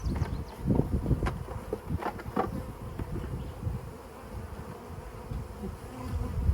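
Honey bees buzzing in numbers around an open hive box during a package installation, a steady hum. A few light wooden knocks in the first two and a half seconds as hive frames are set back into the box.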